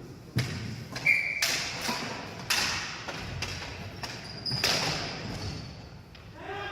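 Ball hockey play: a run of about five sharp knocks and cracks from sticks and the ball, irregularly spaced about half a second to two seconds apart, each with a short echo. A brief high squeak comes about a second in.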